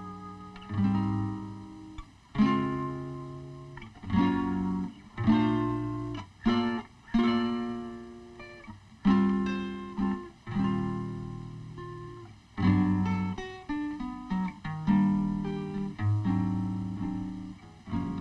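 Background music played on an acoustic guitar: plucked chords struck about once a second or so, each left to ring and fade.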